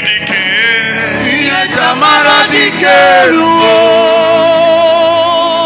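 A man singing a worship chorus over instrumental backing, the melody moving through several notes and then settling on a long held note with vibrato for the second half.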